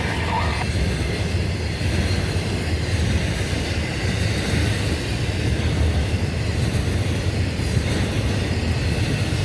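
Freight train rolling slowly, a steady low rumble of locomotive and railcars, with a brief wheel squeal right at the start.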